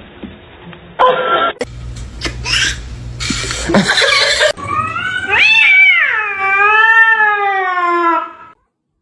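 A cat yowling: one long drawn-out call, about four seconds, that rises and then wavers slowly down in pitch before cutting off near the end. Before it come a few seconds of knocks and rustling over a low hum.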